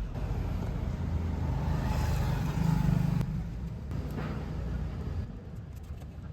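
Low rumbling background noise that swells about two and a half seconds in and eases off near the end.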